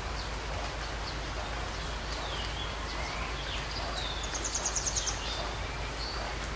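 Small birds chirping over a steady background hiss, with a quick high trill of about eight notes a little after the middle.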